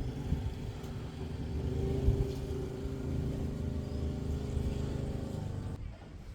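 An engine running steadily, with a single knock about two seconds in; the engine sound cuts off abruptly near the end.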